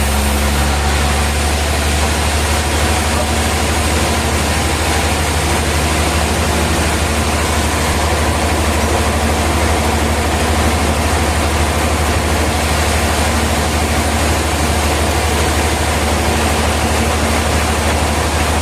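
Heavy sawmill machinery running steadily, with a deep, constant hum under an even mechanical noise.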